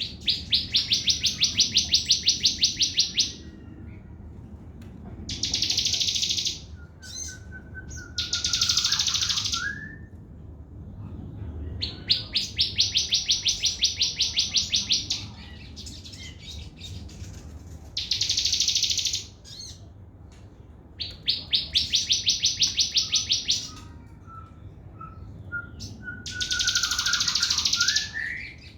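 Sogon bird singing its fast 'trotol' song: about seven rapid, evenly pulsed high trills, each a few seconds long, with short pauses between them. Softer short whistles come in some of the gaps.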